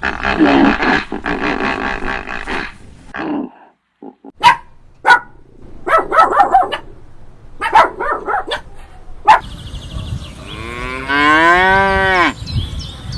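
A horse whinnying for the first few seconds. Then come a few sharp clicks and short calls, and near the end a cow gives one long moo that rises and then falls.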